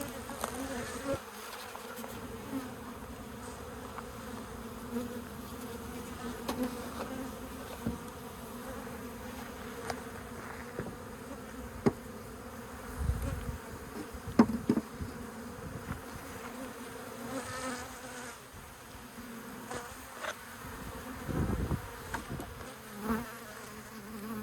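A honeybee colony buzzing steadily around an opened nest, a continuous low hum of many bees. A few sharp knocks and low bumps come through about halfway in and again near the end.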